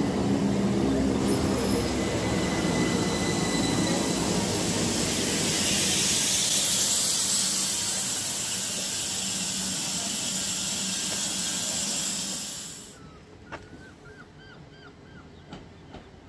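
A train running with a loud rushing hiss of wheels and air. It is loudest about six or seven seconds in and cuts off suddenly near the end, leaving a quieter background with a short run of repeated high chirps.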